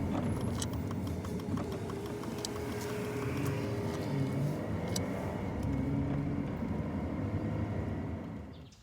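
Car driving, heard from inside the cabin: a steady low engine and road rumble with a few light clicks. It cuts off near the end.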